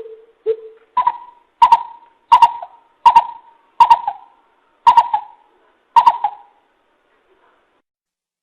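Greater coucal calling: a series of about nine deep hoots. The first two are lower, the rest higher, and the series slows down and stops about six seconds in.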